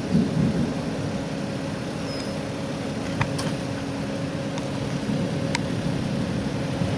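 A vehicle's engine idling with a steady low hum. A few faint sharp ticks come in the middle, and a single brief high chirp about two seconds in.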